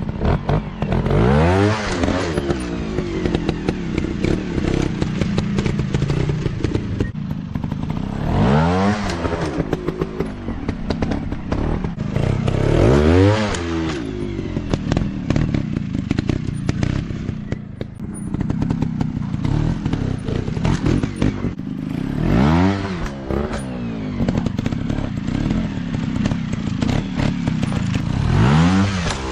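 Dirt-bike engines revving hard in repeated bursts, about five times, each time the pitch climbing steeply then dropping back, over steady engine running with some clatter and knocks.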